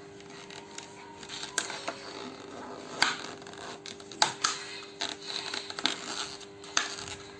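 Hands working a cut plastic bottle onto a vacuum cleaner: irregular crinkling, scraping and sharp plastic clicks, several of them loud, over a faint steady hum.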